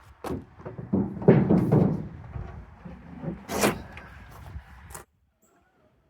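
A run of knocks and clunks, with a heavy thud about a second in and a sharp slam or click about three and a half seconds in. The sound cuts off suddenly near the end.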